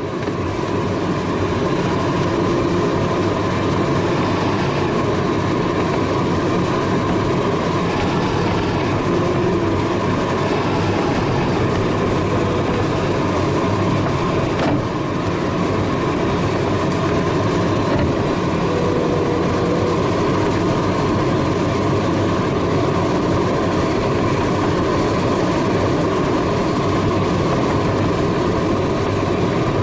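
Steady rush of air over the canopy inside the cockpit of a DG-300 glider in flight on its landing approach.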